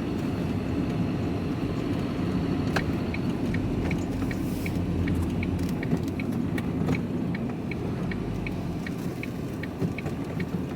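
Vehicle engine running, heard from inside the cab, with a sharp click about three seconds in followed by the turn-signal indicator ticking evenly, about two ticks a second.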